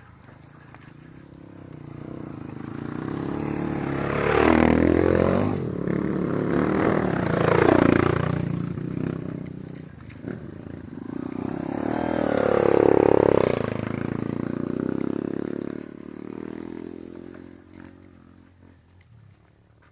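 Off-road motorcycle engine revving on a dirt trail, swelling three times as the throttle is opened and closed, then dying away near the end.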